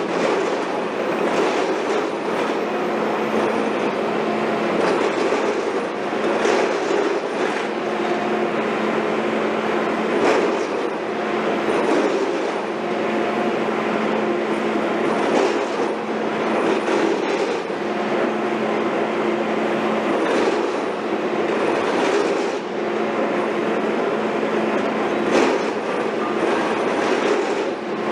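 Heavy construction machinery running steadily, an engine drone under irregular metallic clanks and knocks.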